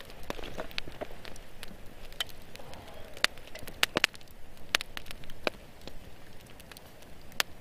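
Campfire crackling and popping, with irregular sharp snaps over a soft background hiss.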